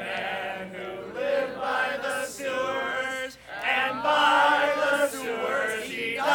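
A group of voices singing a camp song together, with a short break about three seconds in.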